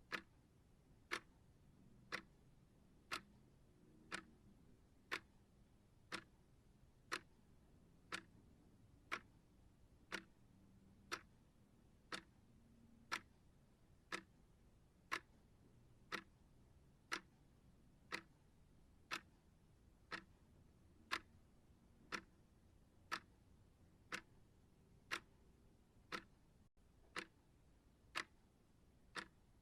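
Clock ticking steadily, one sharp tick a second, over faint low hiss.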